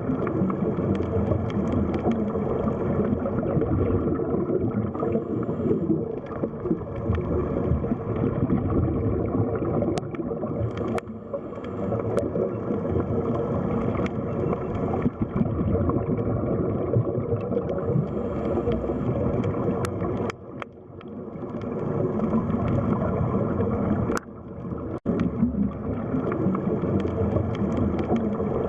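Underwater sea ambience: a steady, deep wash of moving water, with brief drops in level twice in the latter half.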